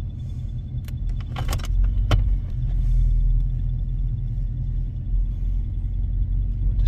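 Steady low rumble of a running vehicle, with a few sharp clicks and rattles in the first two seconds and a faint, steady, high pulsing tone.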